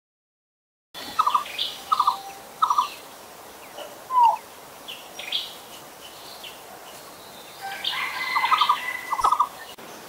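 Bird calls after about a second of silence. Three short trilled calls come in the first few seconds, then a single down-slurred note about four seconds in, and more trilled calls near the end, over higher chirps from other birds.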